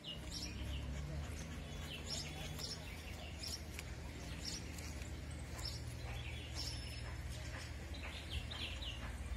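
Small birds chirping, short high calls every second or so at irregular intervals, over a steady low rumble.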